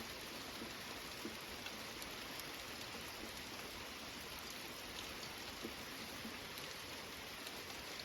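Steady rain mixed with small hail, falling and pattering on surfaces, with a few faint ticks scattered through it.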